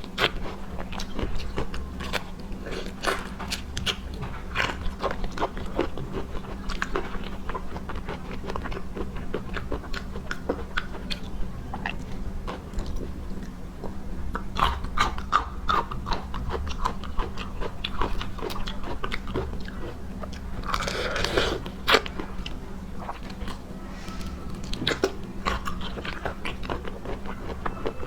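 Close-up mukbang eating of seafood: steady wet chewing and biting, with dense irregular crunchy clicks and smacks and a louder burst of chewing about three quarters of the way through. A steady low hum runs underneath.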